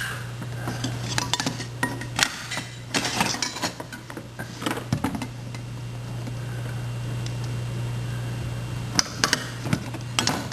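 Toy kitchen dishes and utensils clattering and clinking in a toddler's play, in bursts at the start and again near the end, over a steady low hum.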